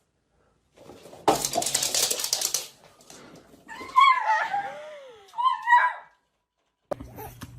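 A dog whimpering in high, sliding whines, a few seconds in, after a harsh, noisy burst about a second in.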